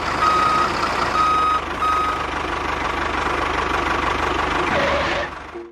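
A vehicle's engine running with a reversing beeper sounding about three short beeps in the first two seconds. The sound cuts off suddenly near the end.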